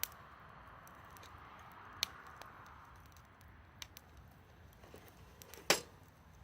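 Wood campfire crackling, with a soft hiss and scattered sharp pops, the loudest pop about five and a half seconds in.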